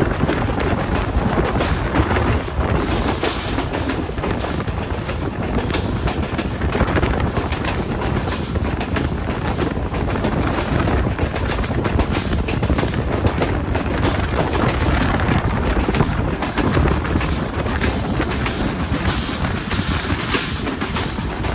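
Passenger train in motion: steady loud rumble and clatter of steel wheels on the rails, with frequent sharp rattles.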